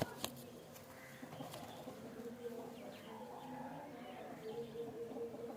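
Domestic pigeons cooing faintly with low, drawn-out, overlapping coos. There are a couple of sharp clicks right at the start.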